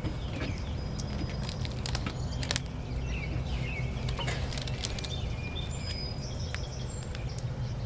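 Outdoor ambience: a steady low rumble with birds chirping now and then, and a scattered series of sharp clicks and taps from handling close by.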